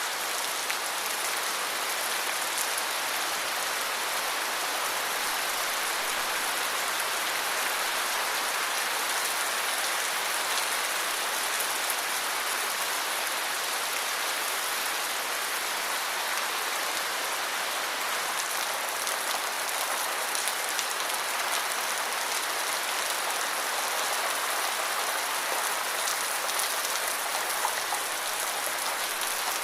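Steady rain falling on surfaces, an even hiss with many small drop ticks.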